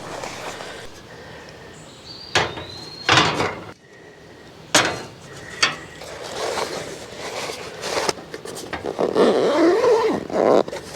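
Gear being handled while packing up camp: several separate sharp knocks and bangs, then denser clattering and rustling near the end with a brief squeak.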